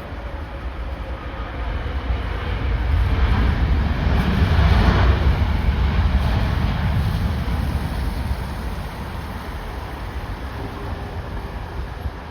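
Jet airliner passing close overhead on final approach, its engine noise swelling to a peak about five seconds in and then fading slowly. Strong gusty wind buffets the microphone throughout.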